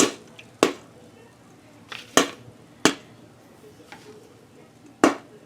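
Popcorn kernels popping in a Whirley Pop stovetop popper: about six sharp, scattered pops, irregularly spaced. These are the last kernels popping as the batch finishes with the burner turned off.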